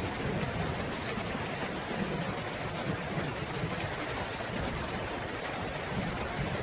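Steady heavy rain, an even continuous hiss, with a low rumble underneath.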